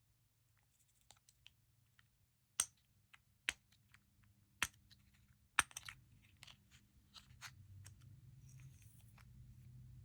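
Slime being handled and squished by hand, giving a run of sharp sticky pops and crackles, four of them loud, over a faint low hum.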